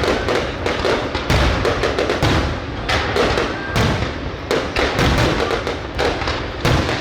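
Fireworks going off in a dense barrage: overlapping bangs and thuds, several a second, with no let-up.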